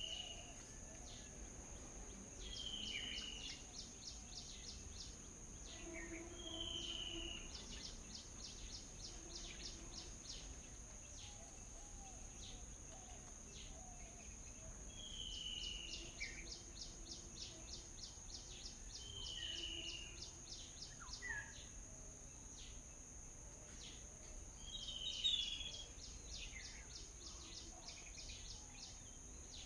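Birds calling outdoors, with a short falling chirp repeated every few seconds, over a steady high-pitched insect drone and fine ticking trills.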